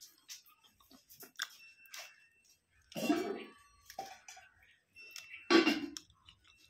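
A person eating biscuits dipped in milk, heard up close: chewing and mouth clicks, with two louder moments about three and five and a half seconds in.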